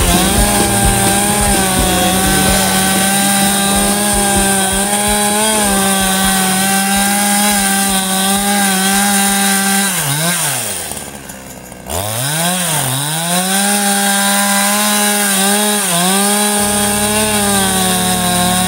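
Ogawa Pro VX8224 two-stroke chainsaw cutting into a large tree stump at full throttle, its engine note steady under load. About ten seconds in the throttle is let off: the engine drops to idle and goes quieter for about a second, then revs back up and carries on cutting.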